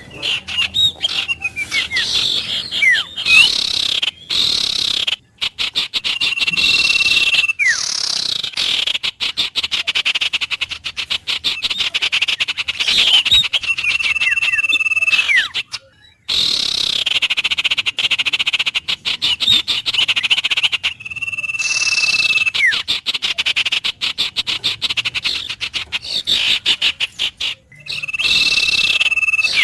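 Wild birds calling over a chorus of rapid rattling trills that start and stop. One bird repeats a single level whistle about a second long roughly every seven seconds, with quick falling chirps between.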